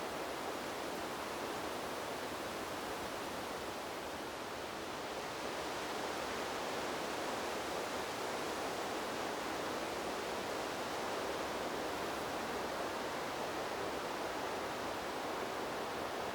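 Wind blowing through trees as a steady, even rushing noise, swelling slightly about six seconds in.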